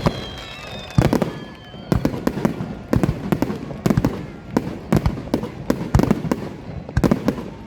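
Fireworks bursting close by: a dense, irregular string of loud bangs and crackles, with a falling whistle in the first second or so.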